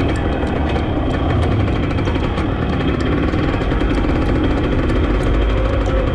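Drag racing car's engine idling loudly and steadily, with frequent sharp cracks over a deep rumble.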